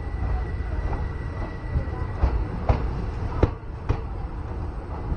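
Passenger train running along the track: a steady low rumble of wheels on rail, with sharp clacks near the middle as the wheels pass over rail joints, two pairs about half a second apart.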